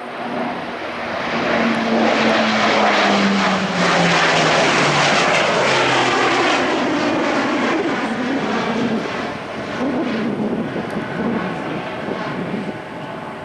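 Grumman E-2 Hawkeye's twin turboprop engines and propellers droning as the aircraft flies past, the propeller tone dropping in pitch as it goes by. The sound swells to its loudest a couple of seconds in and eases off slightly toward the end.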